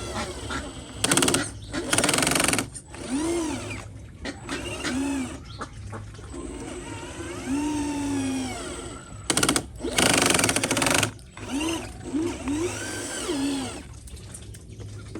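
Small electric motors of radio-controlled construction models whining in short runs that rise and fall in pitch. The runs are broken by several short, loud rushes of noise.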